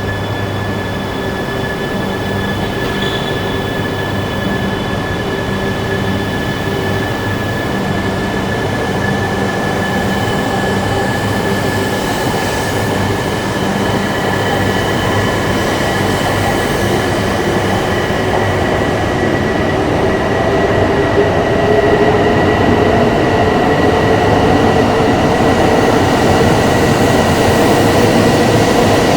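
Shinkansen train in an underground station: rumbling, with its electric motors whining. Halfway through the whine starts rising in pitch and growing louder as the train speeds up.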